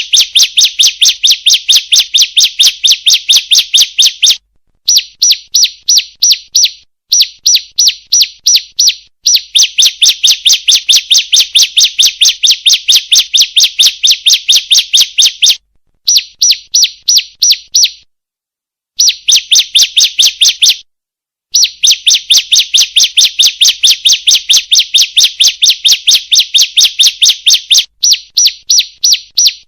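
Female ciblek (prinia) calling: a fast run of sharp, high chirps, about four a second, in long bouts broken by short pauses.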